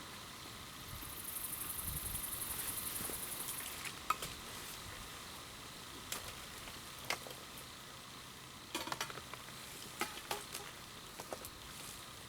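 Sizzling and crackling at a campfire cook-up: a few seconds of high sizzling hiss, then scattered sharp pops and small clicks.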